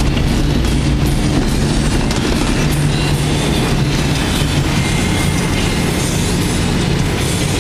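Steady, loud rumble of a moving vehicle, with a low droning hum under a noisy rush.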